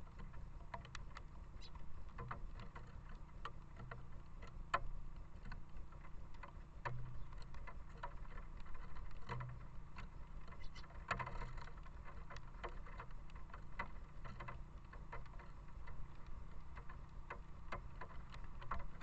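Rain falling: many irregular drops pattering and clicking close by, over a low steady rumble.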